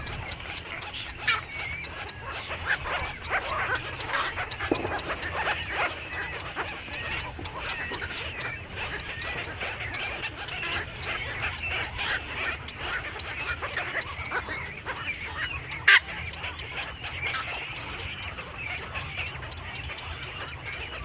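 Many birds chirping and calling at once in a dense, continuous chatter, with one sharp click about three-quarters of the way through.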